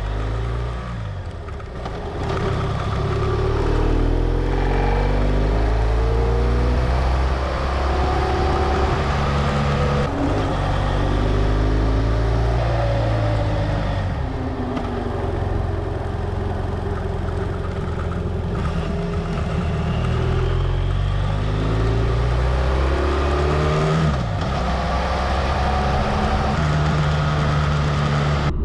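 BMW F800GS parallel-twin engine under way, its pitch rising and dropping back repeatedly as it accelerates and shifts through the gears.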